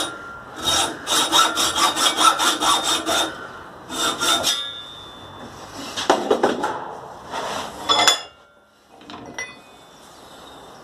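Hacksaw cutting into a 25 mm metal burner pipe with quick, even back-and-forth strokes. The sawing stops about three seconds in, followed by a few separate scrapes and clicks.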